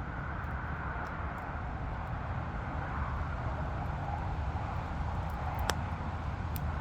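Steady rumble of traffic on a nearby expressway, with a single sharp click near the end.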